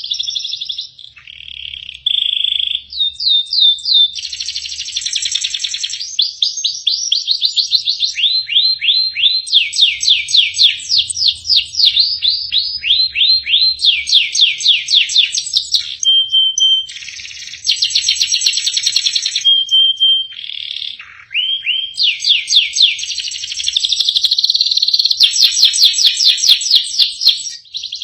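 Domestic canary singing a long, varied song: fast trills and rolls of rapidly repeated notes, changing phrase every second or two, with a few short steady whistled notes in between.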